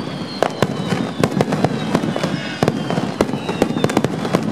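Fireworks display: aerial shells bursting in rapid, irregular bangs, several a second, over a dense crackle. Thin high whistles slide slowly downward.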